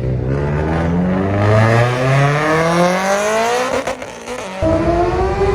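Car engine accelerating hard, its pitch climbing steadily for about three and a half seconds, then dropping off briefly about four seconds in before a steadier engine note takes over.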